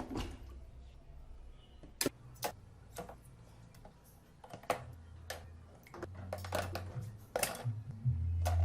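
Scattered clicks and knocks of small objects being handled, with a low hum that comes in about halfway and grows louder near the end.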